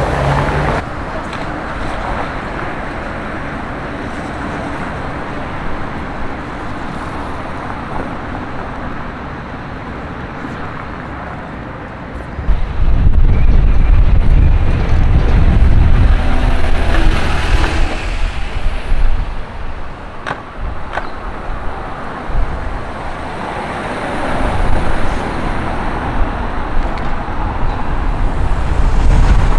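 City street traffic noise, with a vehicle passing close about twelve seconds in, its deep rumble loud for several seconds before fading back into the steady traffic sound.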